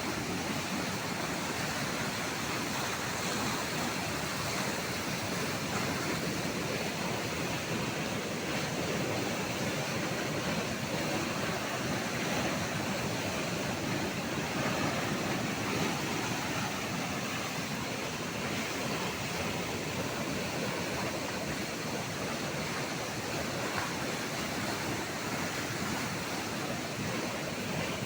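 Steady rushing water, an even noise that holds without a break.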